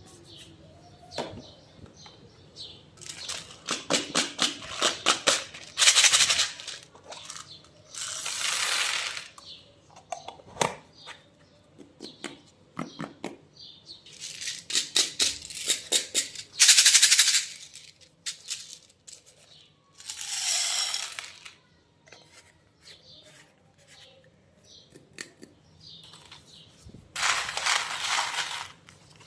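Slime being cut and pressed, in separate bursts: runs of rapid crackling clicks alternate with hissing, squelching rushes, with short pauses between.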